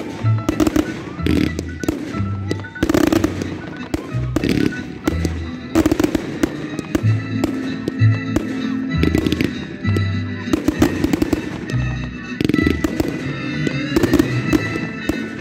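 Fireworks display: aerial shells bursting one after another in rapid succession, some with crackle. Music with a bass line plays throughout.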